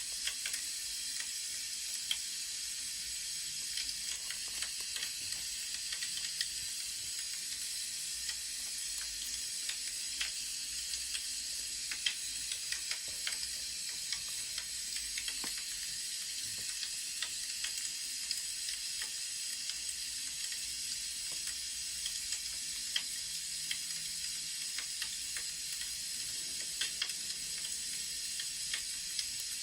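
Burning firewood crackling: a steady hiss with frequent small, sharp pops scattered throughout.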